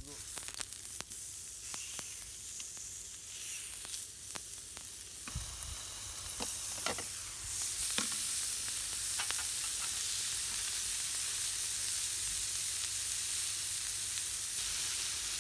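Food sizzling in a hot pan, growing louder and steadier about halfway through, with a few light clicks and knocks in the first half.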